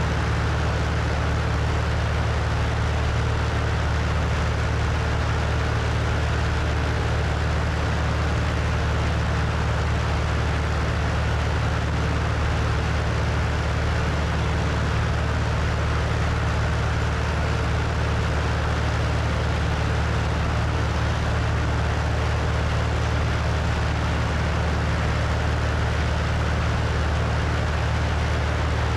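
Cessna 172's piston engine and propeller running steadily, heard from the wing with a steady rush of wind over the microphone. The engine note holds constant throughout.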